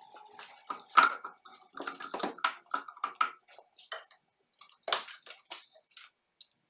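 Irregular metallic clinks and clatter of hard objects being handled and knocked together, with louder clanks about a second in and again about five seconds in.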